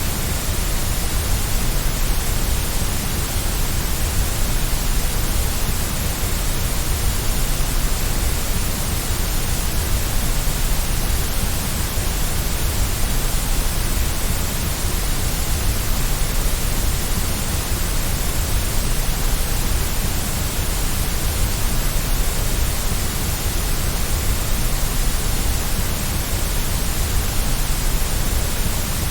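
Steady, unbroken white noise of the kind played to soothe a baby to sleep, a constant hiss heavier in the low end.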